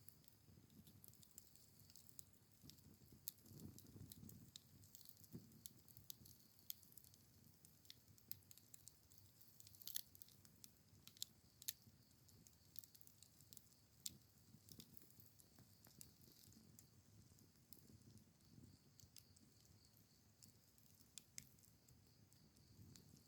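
Faint wood campfire crackling: scattered, irregular sharp pops and snaps, the strongest about ten seconds in, over a soft low rumble.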